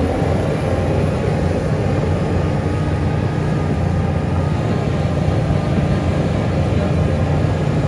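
Heavy earthmoving machine's diesel engine running steadily at a constant speed, a deep unbroken drone.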